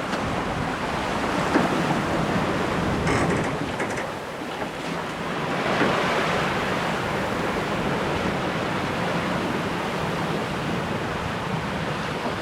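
Water rushing along the hull of a sailing yacht under sail, with wind buffeting the microphone. The wash swells up briefly about six seconds in.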